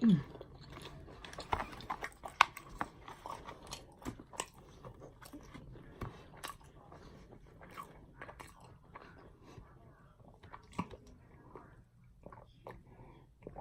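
Close-miked chewing and biting of food, with irregular wet clicks and crunches. A short, loud falling hum comes right at the start.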